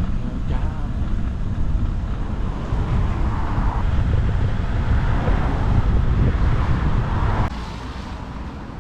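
Wind rushing over the microphone of a moving bicycle, loud and steady, dropping away sharply about seven and a half seconds in.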